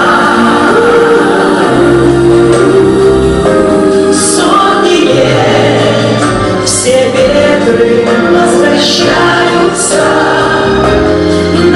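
A group of singers performing a slow song in chorus over instrumental accompaniment with a moving bass line, with a few cymbal-like splashes.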